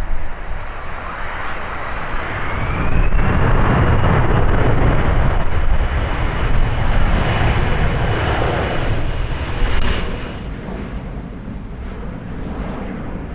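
Boeing C-17A Globemaster III's four turbofan engines running as the jet passes: a heavy jet roar that swells about three seconds in and eases off near the end, with a high whine that rises early on and then holds steady.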